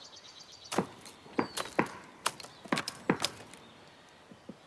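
Black woodpecker chiselling into a tree trunk with its beak: about eight sharp, irregular chopping strikes on wood, then a few fainter taps near the end.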